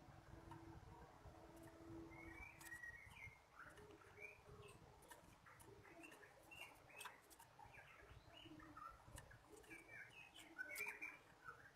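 Small songbird, a ciblek kristal (a prinia), giving many short, quick chirps, starting about two seconds in and continuing in scattered runs, with a few faint clicks among them.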